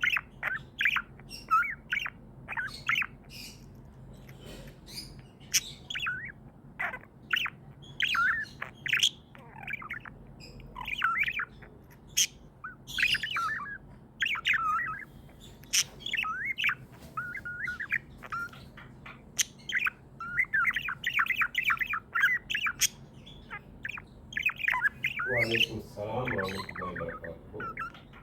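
Pet budgerigars chirping and chattering in a rapid, continuous string of short chirps and squawks.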